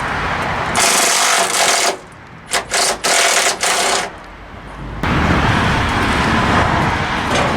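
Impact wrench running in short bursts on a nut: one longer run, then several quick rattling bursts. A steady noise follows from about five seconds in.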